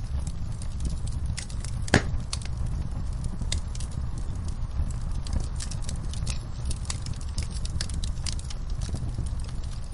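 Wood fire burning in a fireplace: a steady low rumble of the flames with frequent sharp crackles and pops, one louder pop about two seconds in.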